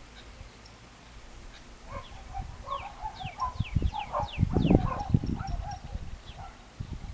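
Birds calling: a run of about eight quick falling whistles over clucking, chattering notes, lasting a few seconds and starting about two seconds in. Low rumbling thumps come and go under the calls and are loudest a little past the middle.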